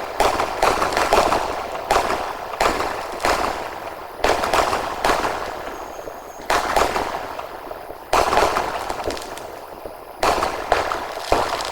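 Aerial sky shot fireworks going off: about a dozen sharp bangs at uneven spacing, each trailing off in a fading crackle.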